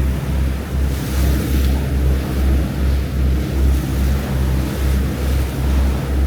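A ferry's engines droning low and steady, with a regular throb about two to three times a second, under wind buffeting the microphone and the rush of sea water along the hull.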